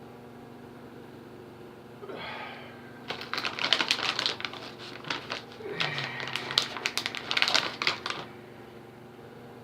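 Dense, rapid crackling and clicking for about five seconds, like packaging or a bag being handled, stopping suddenly, over a steady low hum.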